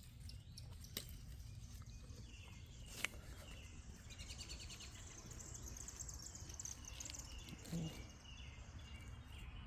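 Faint outdoor ambience: a small songbird singing rapid, repeated chirping trills from about four seconds in, over a steady low rumble, with a sharp click about three seconds in.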